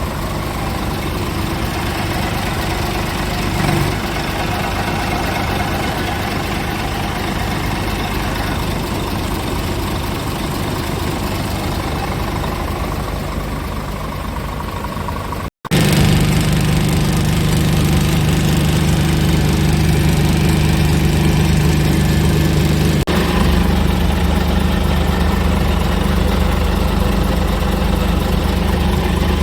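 Scania R490 truck's inline-six diesel engine idling steadily. About halfway through there is a brief break, after which the engine is louder and its low hum stronger.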